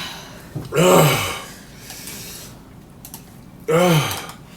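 A person's voice giving two short, breathy "ooh" cries, one about a second in and one near the end, each rising then falling in pitch. They are reactions to the burn of very spicy noodles.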